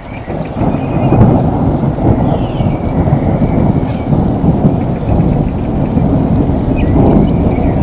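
Rolling thunder over steady rain: a deep rumble swells about half a second in and keeps rumbling on.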